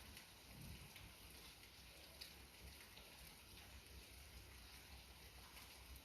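Light rain falling: a faint, steady patter with scattered ticks of single drops.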